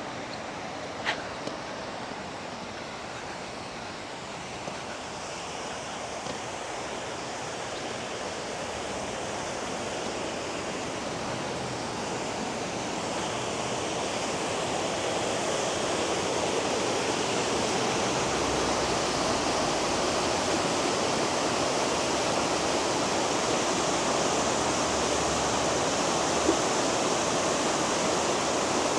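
Waterfall rushing: a steady wash of falling water that grows gradually louder as it is approached, with a faint click or two.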